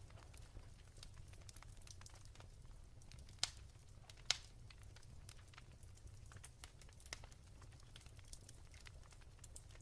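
Wood fire crackling softly: scattered small pops, with two louder snaps about three and a half and four and a half seconds in, over a low rumble.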